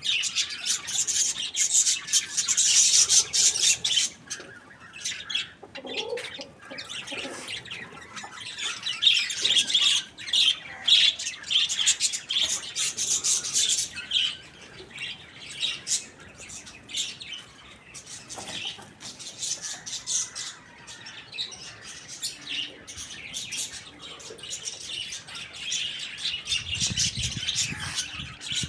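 Many small birds chirping and twittering in rapid, high-pitched calls that swell and fade in loud spells, with a brief low rumble near the end.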